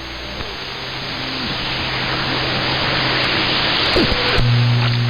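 CB radio receiver static, a hiss that grows steadily louder, with a low steady hum that gets much stronger near the end and a few short sliding whistles from other signals on the channel.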